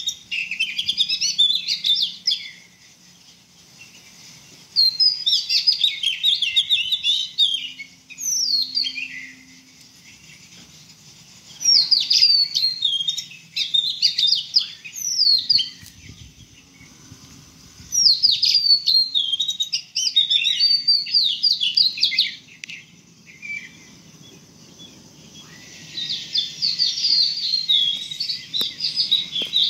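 Small birds chirping in quick, sweeping phrases of two to four seconds, repeated about six times with short quiet gaps between.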